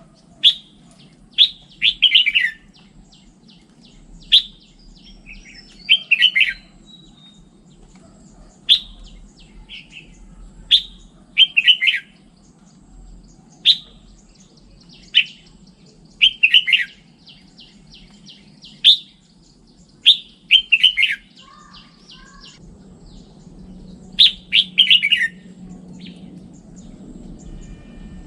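Red-whiskered bulbul singing: short, loud phrases every second or two, each a sharp note followed by a quick falling warble, over a faint low hum.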